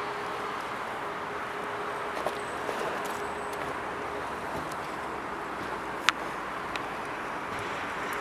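Steady background noise with a faint hum, broken by a few light knocks and one sharp click about six seconds in.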